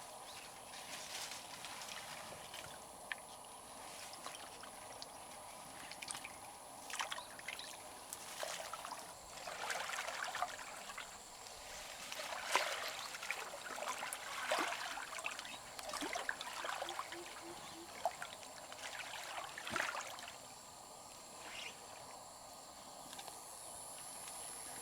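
Shallow river water trickling, with irregular splashes and small knocks that come thickest in the middle.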